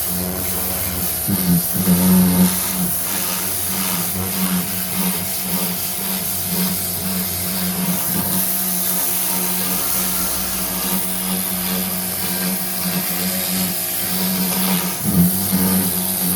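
Pressure washer running steadily, its water jet spraying the greasy underside of the truck with a constant hiss over a steady motor hum, briefly louder a couple of seconds in and again near the end.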